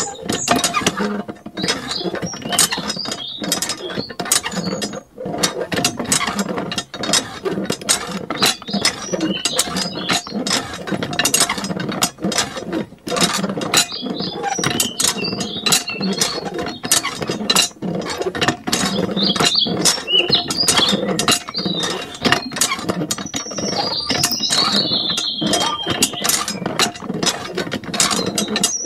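Rapid, irregular clicking and rattling, like a small mechanism, with short high squeaks now and then.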